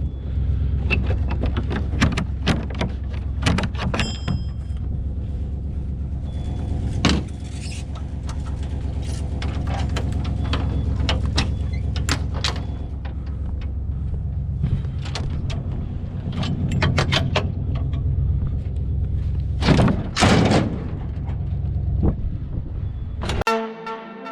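Scrap metal clanking and banging at irregular intervals as it is unloaded from a truck, over a steady low engine rumble. Music comes in near the end.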